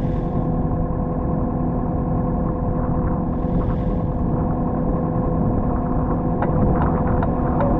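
Excavator's diesel engine running steadily, with a constant drone. Near the end a series of sharp knocks sounds over it.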